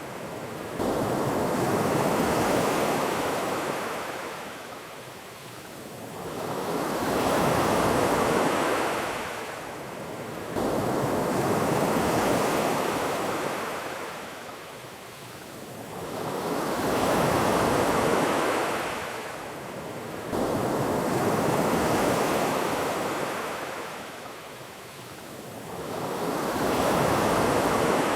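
Ocean waves breaking and washing up a beach in slow, regular swells, each rising and fading over about 4 to 5 seconds.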